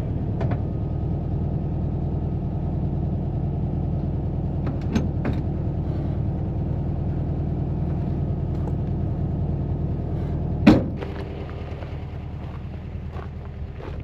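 Air-cooled flat-four engine of a 1958 VW bus running steadily, with one loud knock about eleven seconds in, after which the running sound is quieter.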